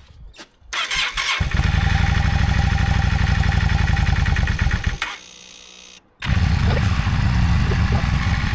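Motorcycle engine cranked on a boost pack and firing up, running at a steady fast idle about a second and a half in, its first start after winter storage. The engine sound drops away for about a second and then comes back.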